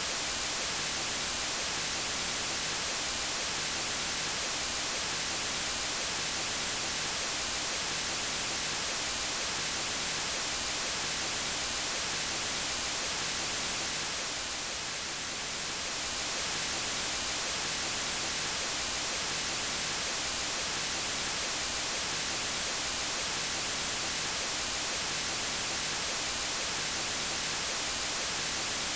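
Steady white noise, a bright, even hiss with no tones or rhythm, dipping slightly in loudness for a moment about halfway through.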